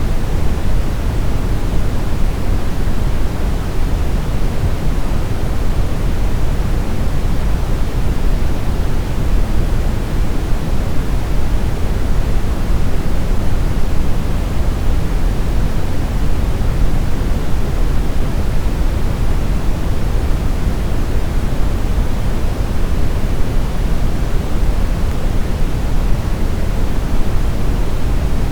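Steady brown noise: an even, deep rumbling hiss with most of its weight in the low end and little at the top, unchanging throughout.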